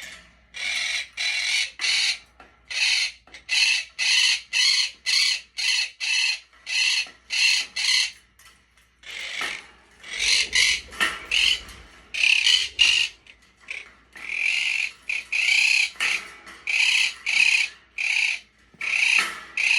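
Pet parrot screeching: a long run of harsh, repeated squawks, about one or two a second, with a short pause about nine seconds in.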